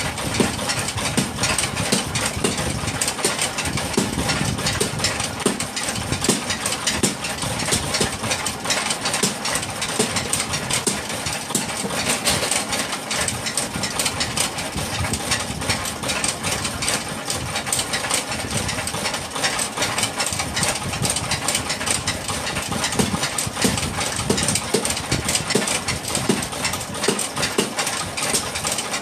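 Engine-driven workshop machinery running steadily, with a dense, irregular clatter of clicks throughout.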